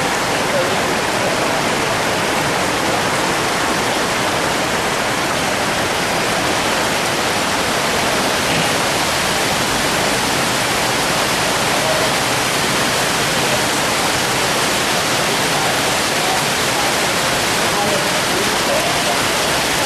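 Floodwater of a river in spate rushing, a steady roar of water without breaks.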